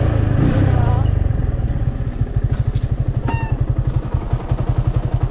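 Motorcycle engine running, then settling about two seconds in into an even, rapid low putter at idle.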